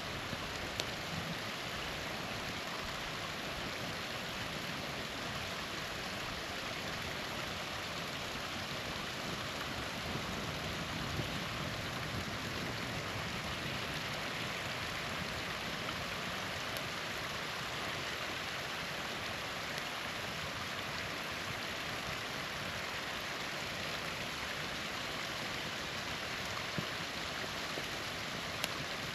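Small waterfall rushing steadily. A few faint pops from a campfire crackling now and then.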